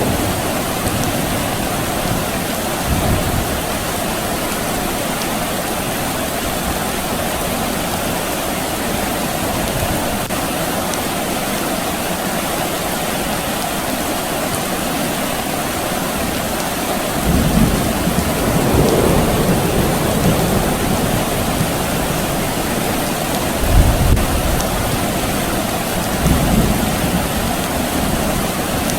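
Steady rain falling, with distant thunder rumbling low several times. The longest roll comes about two-thirds of the way through, and a shorter, sharper one follows a few seconds later.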